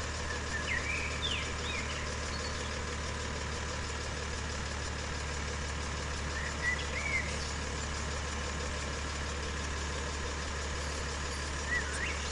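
Vehicle engine idling steadily with a low hum. Short bird chirps come in a few times: about a second in, around seven seconds, and near the end.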